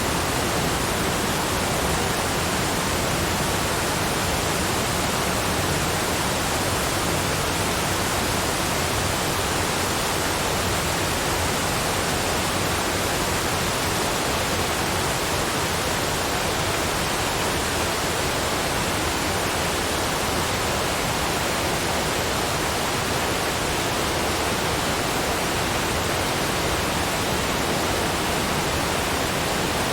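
Waterfall: a steady, unchanging rush of falling water, spread evenly from deep to hissing high pitches.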